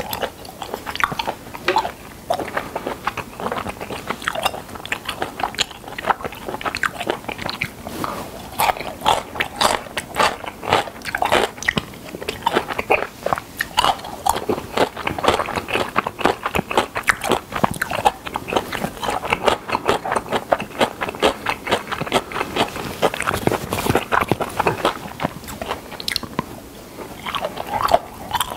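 Close-miked chewing of spicy whelk salad and somen noodles: a steady run of wet smacking and crunching bites with no break.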